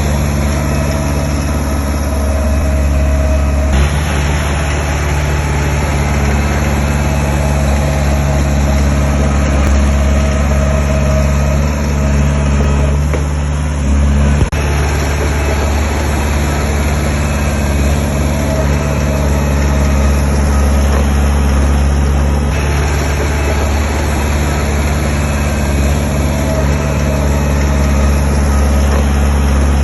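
Heavy diesel construction machine running steadily with a low, even engine drone, and a single sharp clunk about halfway through.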